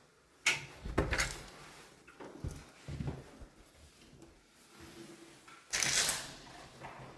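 A few short knocks and scuffs in an echoey indoor space, then a louder scraping rustle lasting about half a second, near the end.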